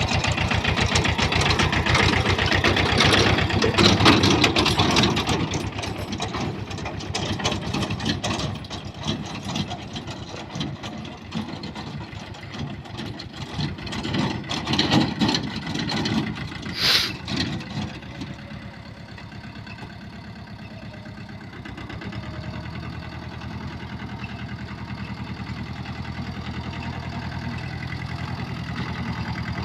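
Diesel engines of an excavator and a tractor running, the sound surging and easing as the machine works, with a brief hiss about 17 seconds in. After about 18 seconds the engine sound settles to a steadier, quieter running.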